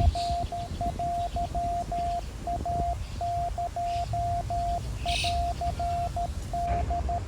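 Morse code beeping: one steady tone keyed in short and long pulses, over a low rumble with a few brief bird chirps.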